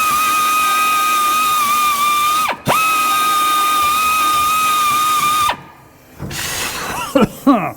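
High-speed power tool running with a steady high whine and hiss. Its pitch dips sharply once, about two and a half seconds in, then recovers. It stops about five and a half seconds in.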